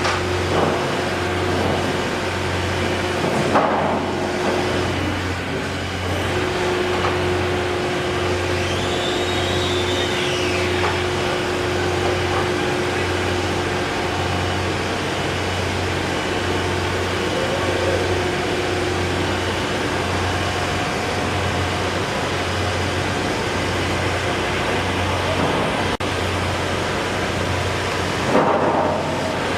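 Steady mechanical noise with a low hum that throbs about once every second and a half, plus a faint whistle that rises and falls once near the middle.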